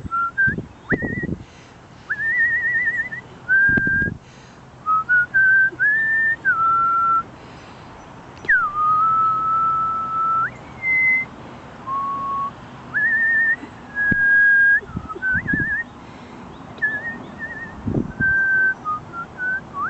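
A person whistling bird-call phrases to draw out birds, especially cardinals: short held notes and quick warbling trills at changing pitches, with one long held note about halfway through that begins with a downward swoop. A few low thumps sound underneath.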